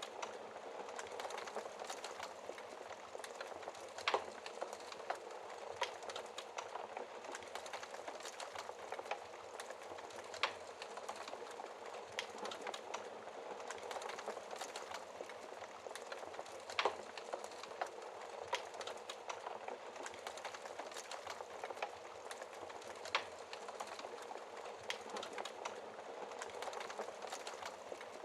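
Log fire burning in a fireplace: a steady hiss with frequent small crackles and a handful of louder, sharp pops from the burning wood, the biggest about four seconds in and again around the middle.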